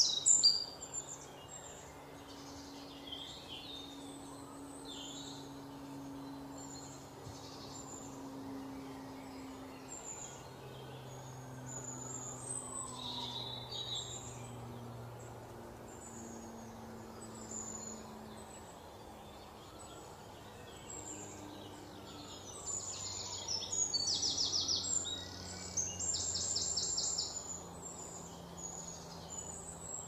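Birds chirping and calling in short, high notes throughout, with louder rapid trills about three quarters of the way through, over a faint low hum.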